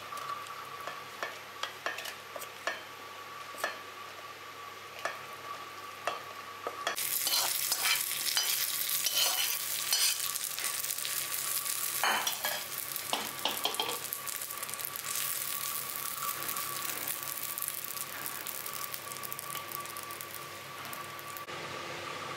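A spatula scraping and tapping against a pan and a steel jar as fried vegetables are scooped out. About seven seconds in, loud sizzling and crackling of food frying in hot oil starts, with stirring, and stops shortly before the end.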